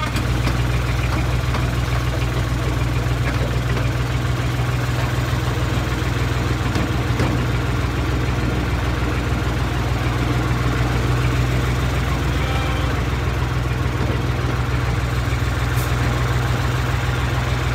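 Miniature railway train rolling slowly along the track, with a steady low engine drone.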